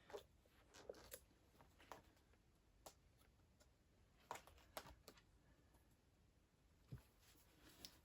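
Faint, scattered small clicks and taps of a screwdriver and small screws being fitted back into an iMac's internal frame, about ten light ticks spread irregularly, a little louder around the middle and near the end.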